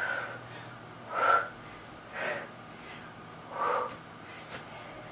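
A woman breathing hard from exertion in the middle of a workout, four heavy, audible breaths a second or so apart.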